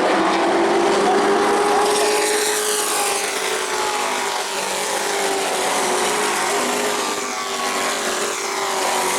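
Several racing trucks' engines running at speed together, engine notes holding steady with slight rises and falls in pitch as the pack goes by.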